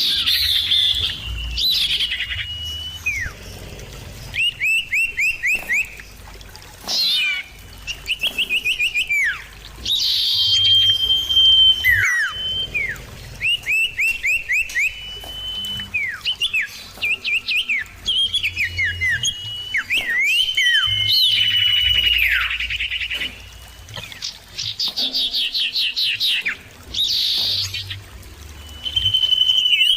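Common iora (cipoh) calling back and forth: quick runs of clear repeated whistled notes, long held whistles and down-sliding calls, one phrase after another with short pauses.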